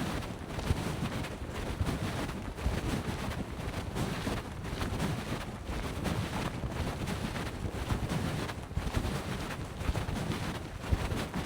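Wind buffeting the microphone in low gusty rumbles over a steady rush of flowing creek water.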